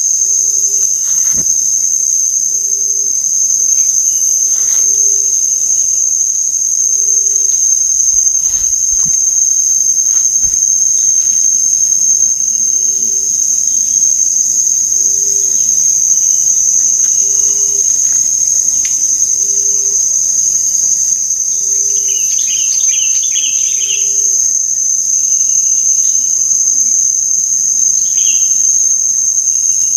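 Forest insects shrilling in a steady, loud, high-pitched chorus. Under it a soft low call repeats about every second and a half, and short bird chirps come twice near the end.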